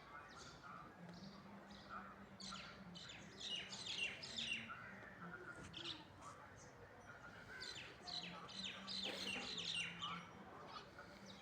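Mynas and other birds chirping: rapid series of short, sharp, falling chirps, busiest about two to five seconds in and again from about eight to ten seconds in, over softer scattered calls.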